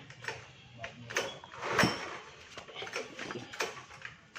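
Scattered knocks and clicks of metal parts and hand tools being handled while a scooter's CVT transmission is put back together, with one sharper knock about two seconds in.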